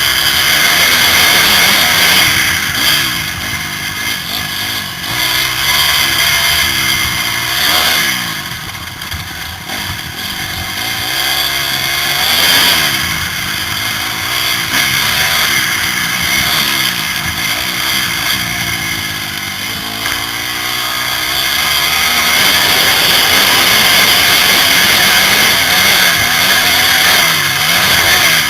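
Motocross bike engine heard from the rider's helmet, revving up and dropping back over and over as it accelerates and shifts around the track, with a few short lulls where the throttle is eased off.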